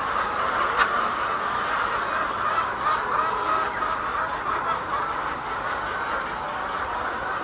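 A large flock of laying hens clucking together in a steady, dense chorus, with a single sharp click about a second in.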